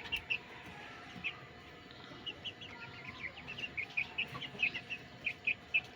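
Chickens calling: a quick run of short, high chirping notes, thickening from about two seconds in.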